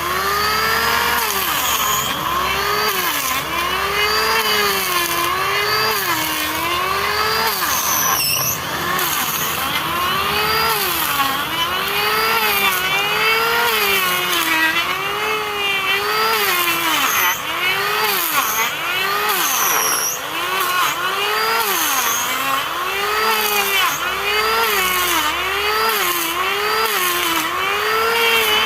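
Electric wood planer running and cutting wood in repeated passes, its motor pitch dropping and recovering about once a second as each pass loads it.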